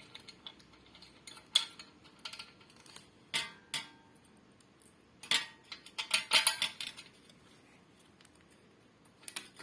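Scattered metallic clinks and taps as a ceiling fan blade and its bolts are handled and fitted onto the fan body, with short quiet gaps between them.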